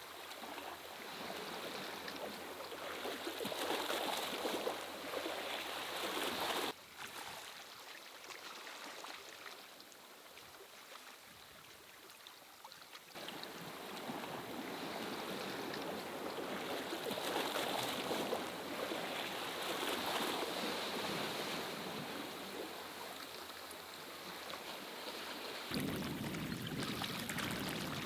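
Steady rushing water noise, drawing in sea waves and rain. It drops abruptly about seven seconds in, comes back near thirteen seconds, and jumps up again near the end.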